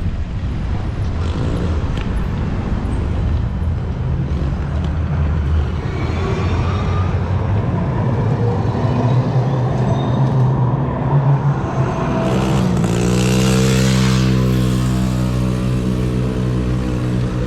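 City traffic noise. About two-thirds through, a motor vehicle's engine drops in pitch and settles into a steady idling hum, with a brief rush of hiss as it comes in.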